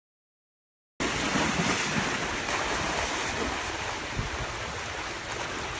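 Dead silence for about a second, then a steady rushing noise with the choppy low buffeting of wind on the microphone, easing off slightly towards the end.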